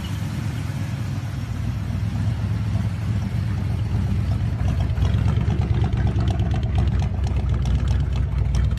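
Engine of an old truck running steadily, growing louder about halfway through.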